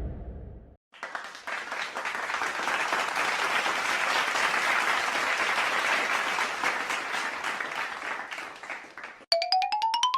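Crowd applause, a dense clatter of many hands clapping for about eight seconds and tapering off. Near the end a short pitched sound effect glides rapidly upward in quick pulses.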